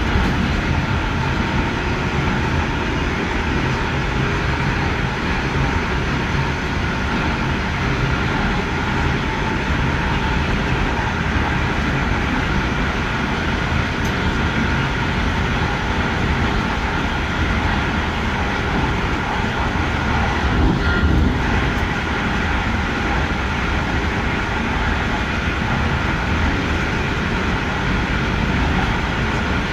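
Electric passenger train running along the track, heard from inside its rear cab: a steady rumble of wheels on rails, with a brief louder rumble about two-thirds of the way through.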